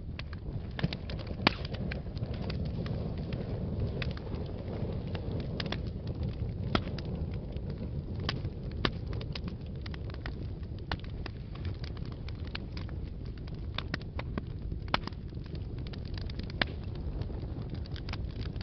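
Wood fire in a fireplace burning with a steady low rumble and frequent irregular crackles and pops, a louder pop about a second and a half in.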